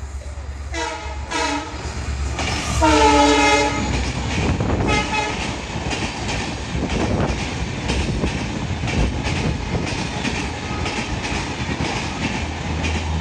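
Railway locomotive horn sounding as a train approaches: two short blasts, then a longer, louder one. The passenger coaches then run past along the platform with a steady rumble and wheel clatter on the rails.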